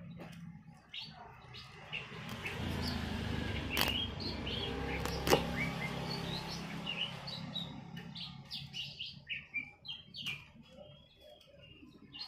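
Small birds chirping in short, repeated calls throughout. A low hum swells up about two seconds in and fades away after about eight seconds, and two sharp clicks come in the middle.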